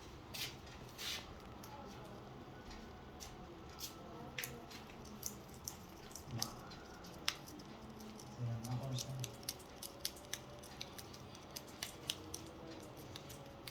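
Irregular sharp clicks and taps, a few each second, with a brief low hum about eight and a half seconds in.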